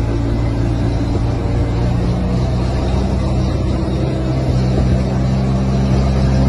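Truck engine running steadily with a deep, even hum; its pitch shifts slightly about two seconds in.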